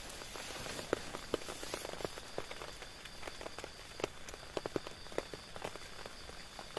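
Raindrops striking a tent, irregular sharp taps over a steady rain hiss that is heavier for the first couple of seconds.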